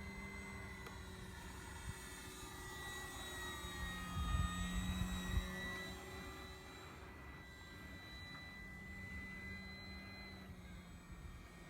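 Brushless electric motor and propeller of an E-flite Carbon-Z Cessna 150 RC plane whining steadily in flight, its pitch dipping and recovering around the middle. A burst of low rumble about four seconds in is the loudest part.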